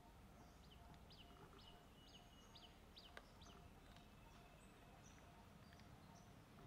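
Faint high chirping of small birds in the background: short, quick, sliding notes, several a second through the first half and more scattered later, over a quiet low hum.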